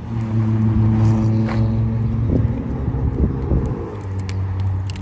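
Car engine running with a steady hum that drops slightly in pitch about two seconds in. A few light clicks come near the end.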